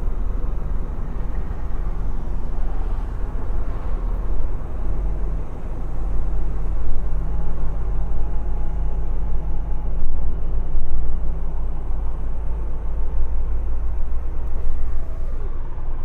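Semi-truck engine running with road noise, heard from inside the cab as the truck pulls away; its low drone strengthens about five seconds in.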